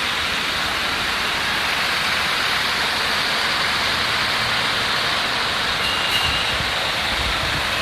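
Steady running noise of a moving Scania bus, engine and road noise together, with the low rumble rising a little after the middle and a brief high beep about six seconds in.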